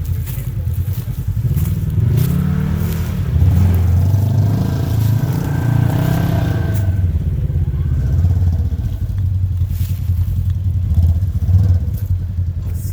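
Polaris RZR side-by-side engines: one runs steadily close by, while another's revs rise and fall for several seconds before settling back.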